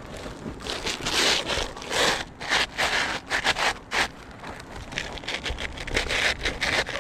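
Irregular gritty scraping and rustling against roof shingles, in a run of short rough bursts, loudest between about one and four seconds in.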